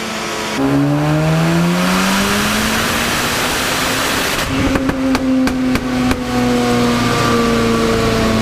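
Mazda RX-7 FD's twin-turbo 13B rotary engine under a dyno pull: the revs climb steadily for about four seconds, then a run of sharp cracks comes from the exhaust and the engine holds at high rpm.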